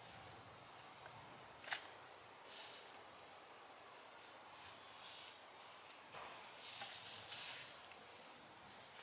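Faint, steady high-pitched insect chirring, with soft rustles of gloved hands working loose garden soil and a small click about two seconds in.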